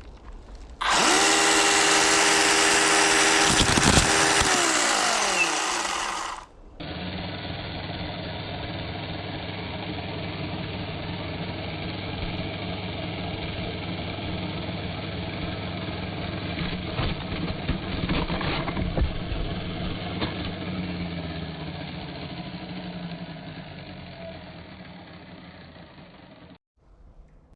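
Chainsaw running at a steady pitch, then winding down a few seconds in. After a cut, a duller steady run of the saw with a few clattering knocks, fading out near the end.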